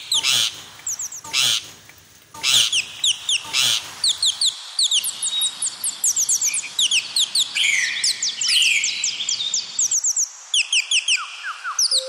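Many birds chirping: a dense run of quick, high, down-sweeping chirps. For the first four seconds or so, a loud harsh sound comes about once a second.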